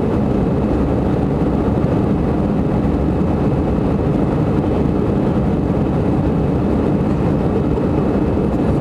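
Airliner's jet engines and rushing air making a steady, even rumble during the takeoff climb, most of the sound low.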